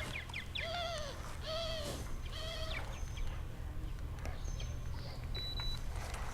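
A bird calling three times about a second apart, each call a short arched note, followed by a few faint high chirps.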